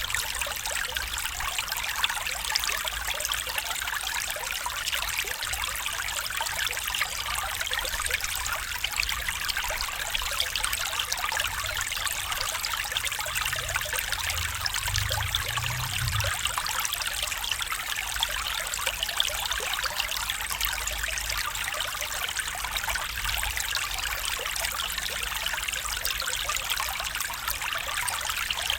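Stream water trickling and splashing steadily over rocks.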